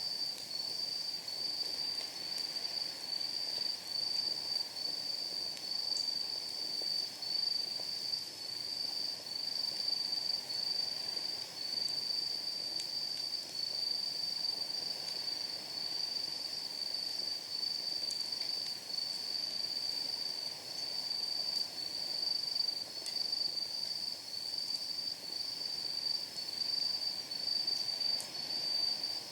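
Night insects trilling in a continuous high, slightly pulsing chorus over the low hiss of a wood fire burning in a steel fire pit, with a few faint pops from the firewood.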